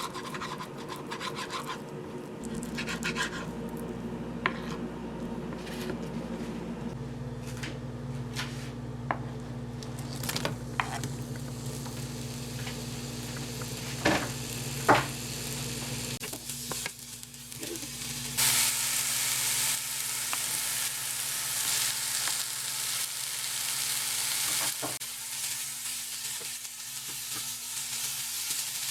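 Cooking sounds: utensils clicking and knocking against a pan, then, a little over halfway through, food starting to sizzle in hot oil and frying steadily over a low hum.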